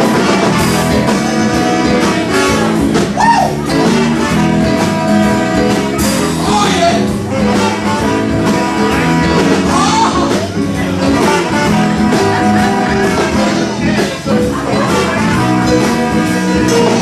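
Live blues band playing an instrumental stretch, with electric guitar to the fore and a few bent notes over a steady backing.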